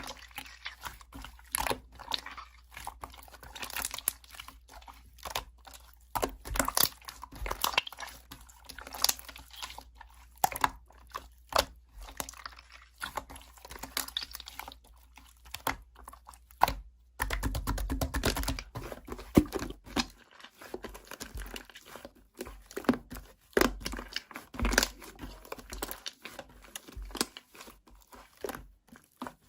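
Slime being squeezed and poked by hand, giving a steady run of sticky crackles, pops and clicks that grows denser about two-thirds of the way in.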